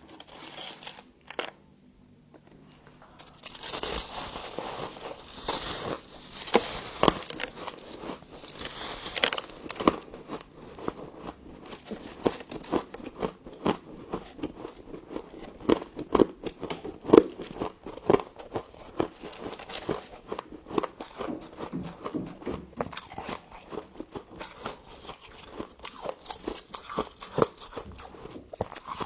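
Frost being bitten and chewed: dense, irregular crunching and crackling that starts about three seconds in and keeps on.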